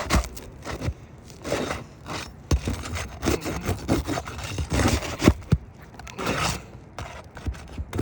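Irregular scraping and sharp clicks of a tool working against roof shingles, prying loose an overdriven roofing nail.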